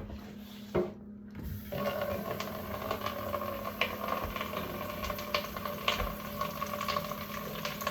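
Kitchen tap turned on about two seconds in, water running steadily with a few light clicks, over a low steady hum.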